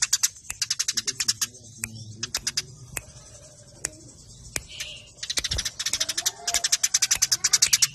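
Eurasian tree sparrows chattering: fast trains of sharp, high chirps, about ten a second, in bursts. The chatter thins to scattered single chirps midway, then picks up again in a long dense burst about five seconds in.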